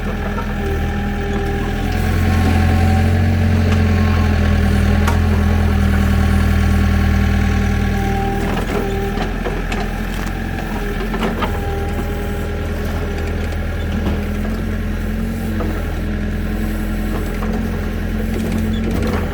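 Tractor engine running steadily, growing louder for several seconds early on, then settling back, with a few sharp knocks through it.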